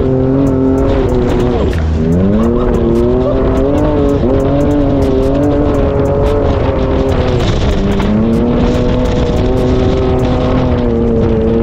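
Can-Am Maverick X3's turbocharged three-cylinder engine under load as the side-by-side drives, revs dipping and climbing again about two seconds in and easing lower near the end, with scattered sharp ticks.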